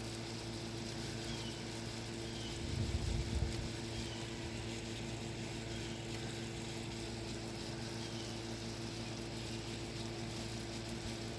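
A steady mechanical hum with several tones, and a few faint bird chirps over it. A brief low rumble comes about three seconds in.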